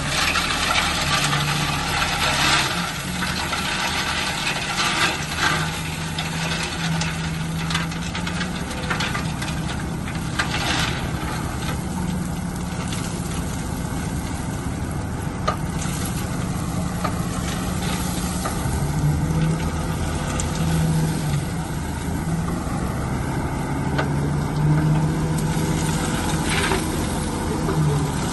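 Bulldozer diesel engine working, its pitch rising and falling again and again under load, with intermittent crunching and scraping as material is crushed.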